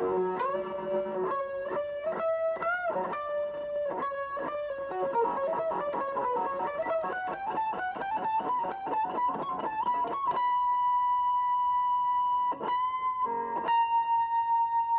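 Electric guitar through a Boss GT-1 multi-effects unit and a Vox Mini5 amp, playing a single-note lead melody. A fast run of picked notes climbs in pitch, then about ten seconds in a long high note is held, restruck briefly near the end and held again.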